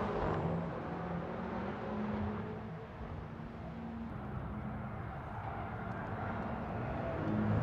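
BMW X6 M's twin-turbo V8 driven hard on a racetrack. The engine note fades as one car pulls away, then grows again near the end as another approaches.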